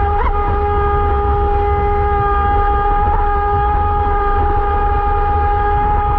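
Electric motor of a radio-controlled boat running at a steady speed, a held whine at one pitch over a constant low rumble.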